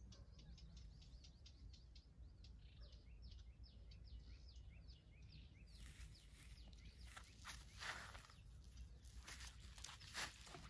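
Faint bird chirping, short calls repeated about four times a second, for the first half; then footsteps and rustling crunches on a sandy bank, loudest near the end, as a person steps to cast a fishing line.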